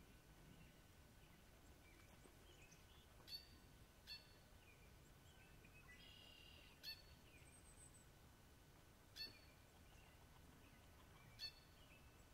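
Quiet marsh ambience with a bird's short, sharp call sounding five times at irregular intervals of one to three seconds, over faint chirps from other birds and a brief high trill near the middle.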